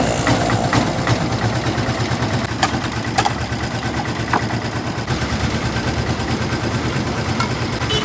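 Motor-driven sugarcane juice crusher running with a steady, fast low throb, with a few sharp clicks and knocks over it.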